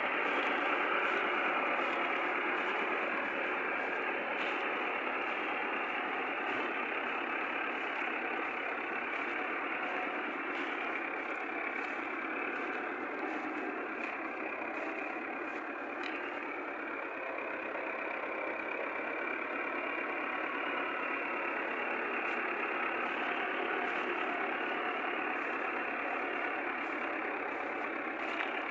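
Millat tractor's diesel engine running steadily.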